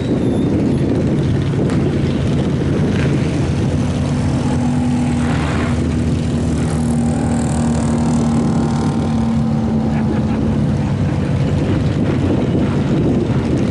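V8 engine of a mud-bogging Chevy Blazer mega truck running loud and steady, with a held engine note through the middle of the stretch.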